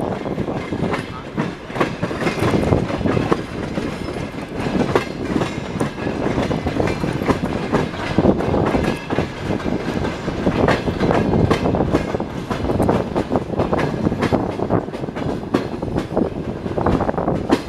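Passenger train carriage running on the rails, its wheels clattering over the track in a continuous rumble with many irregular sharp clacks.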